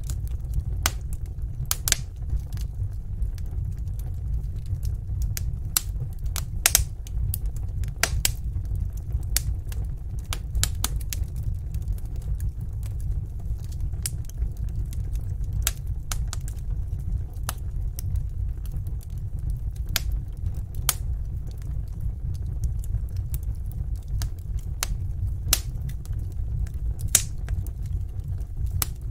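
Wood fire burning in a fireplace, with irregular sharp crackles and pops, several a second, over a steady low rumble.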